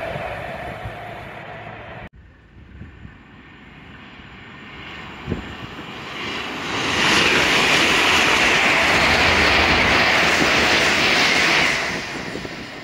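LNER Azuma express train passing through at speed: a loud, steady rushing hiss that builds over about a second and drops away near the end. Before it, the rumble of an earlier train is cut off abruptly about two seconds in.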